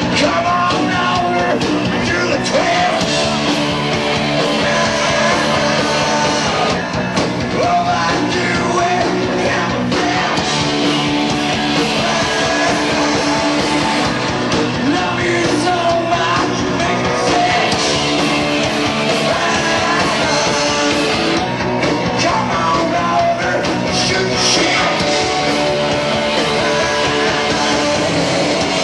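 Live punk-edged rock band playing loud, with electric guitar, bass and drums under shouted singing, recorded from the audience on a cassette.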